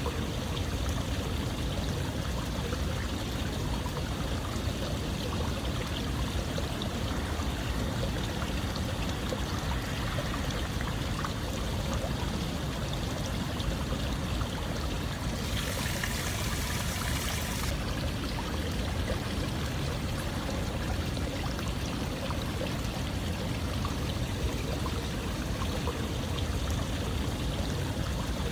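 Running water with a steady, unbroken rush. About halfway through, a brighter hiss rises for a couple of seconds.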